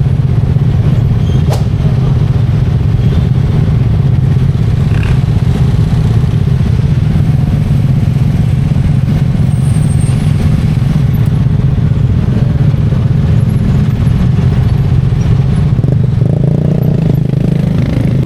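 Steady, loud rumble of a moving road vehicle, with engine and road noise carrying on without change.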